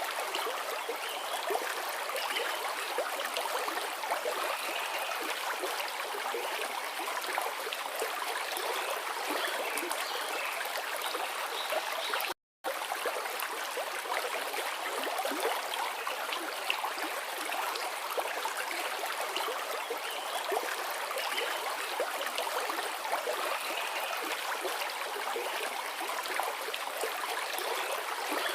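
Forest river flowing: a steady rush of running water, with a momentary cut to silence about twelve seconds in.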